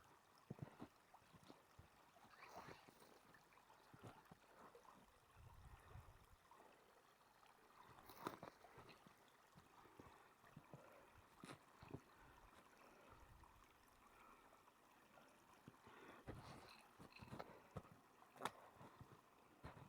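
Faint footsteps crunching irregularly on icy snow, with scattered sharp crackles.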